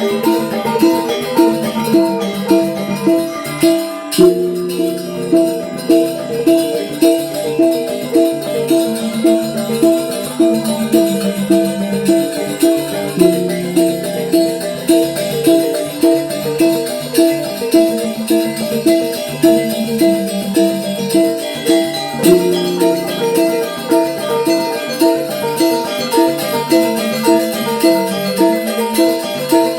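Angklung ensemble playing: many short, pitched notes repeat in a fast, even pattern over a steady pulse about twice a second.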